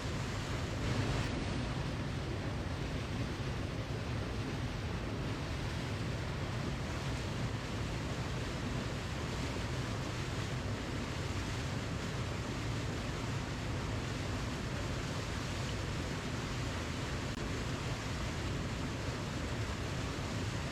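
Waterfall: water rushing steadily, with a deep, even roar.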